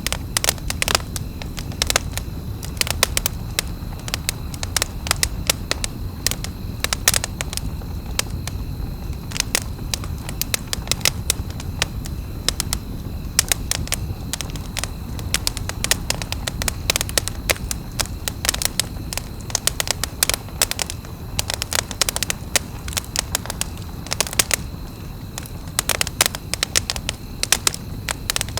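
Campfire burning, the wood crackling with frequent sharp pops over a steady low rumble.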